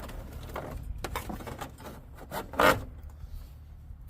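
Rubber drive belt being worked off its pulleys and around the engine fan of a Nissan KA24E. It makes a series of short rubbing and scraping strokes, the loudest about two and a half seconds in.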